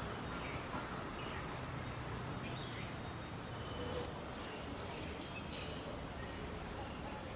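A steady, high, thin insect drone, like crickets or cicadas, over background hiss, with a few faint short chirps scattered through it.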